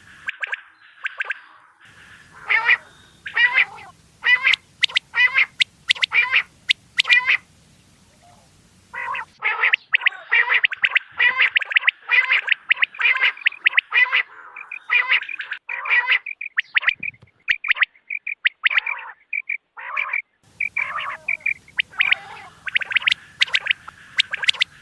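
Quail calling repeatedly, a lure recording for hunting quail: strings of short, sharp calls, at first about two a second, then fast and crowded from about nine seconds in, with brief breaks where the recording is spliced.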